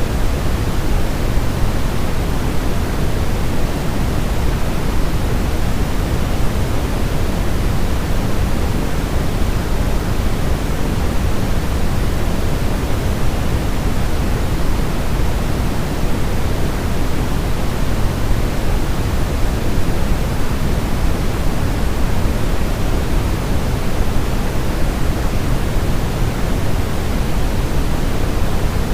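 Steady white noise for baby sleep: an even, unchanging hiss weighted toward the low end, meant to imitate the sound of the womb.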